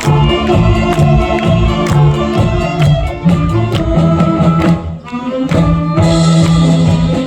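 Saxophone big band playing a medley of Korean popular trot songs live, over a steady beat with strong bass. The music thins out briefly about five seconds in, then comes back with held notes.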